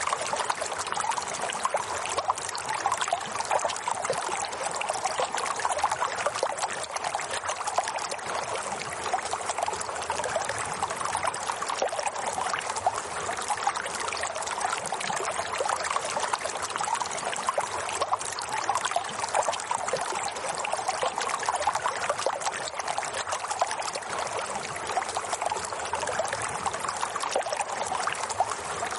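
Running water flowing steadily, an even fine splashing with no break or change.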